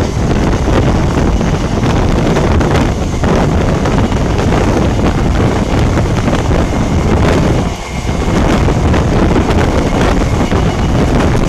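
Wind buffeting the microphone at the open door of a moving Indian Railways passenger coach, over the steady running rumble of the train on the rails. The noise eases briefly about eight seconds in.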